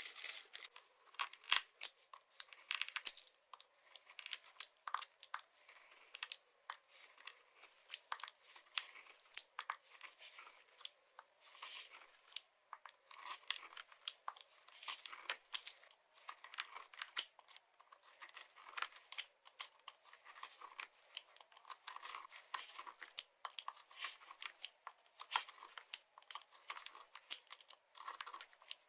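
Dry soap being crushed and crumbled, a steady run of sharp crackles and crunches.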